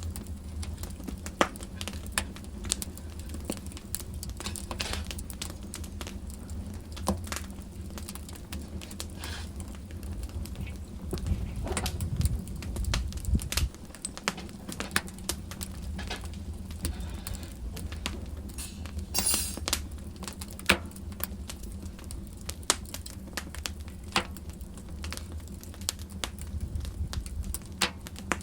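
Wood fire in a fireplace crackling, with frequent sharp pops over a low, steady rumble of flames. A little before the middle the rumble swells for a couple of seconds and then drops off suddenly. About two-thirds through comes a brief hiss.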